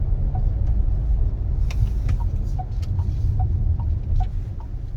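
Inside the cabin of a moving SsangYong Torres SUV: low, steady road and engine rumble, with the turn-signal indicator ticking in an alternating high and low tick, about two and a half ticks a second, steady from about two seconds in.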